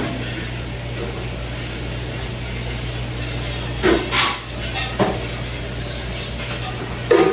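Steady mechanical hum with a few separate knocks and clinks of hard objects: one at the start, a cluster about four seconds in, one about a second later and one near the end.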